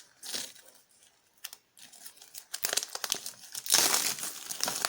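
Packaging of a new Bible being crinkled and torn open by hand. The rustles are scattered at first, then grow dense and loudest near the end.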